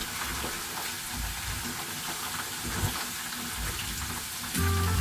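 Potatoes sizzling as they fry in hot oil in a frying pan, with a spatula stirring them. Background music comes in near the end.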